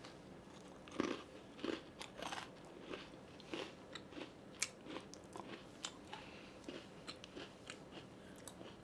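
A person biting into and chewing a crunchy vanilla cream sandwich cookie: a run of sharp crunches, the loudest in the first few seconds, then softer, smaller crunches as she keeps chewing.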